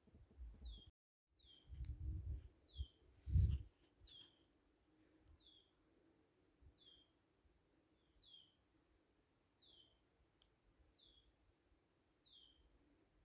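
A bird repeating a two-note call over and over at an even pace, about once every three-quarters of a second: a short high note, then a lower note that falls. Low rumbling thumps come about two and three and a half seconds in, the second the loudest sound, and the sound cuts out completely for a moment just before that.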